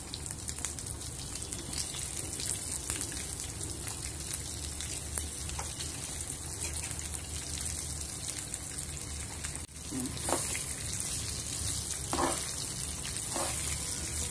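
Raw green mango slices frying in hot oil with fennel seeds in a frying pan, a steady crackling sizzle. From about ten seconds in, a steel spoon knocks and scrapes a few times as the slices are stirred.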